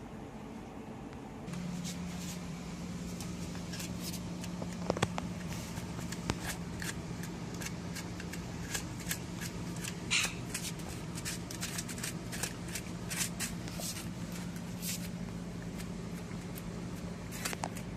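A dog licking and smacking at ice cream: a string of irregular wet clicks and lip smacks. A steady low hum runs beneath from about a second and a half in.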